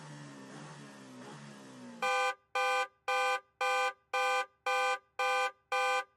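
Quiet background music, then from about two seconds in a countdown-timer sound effect of loud electronic beeps, about two a second, marking the last seconds of the quiz round.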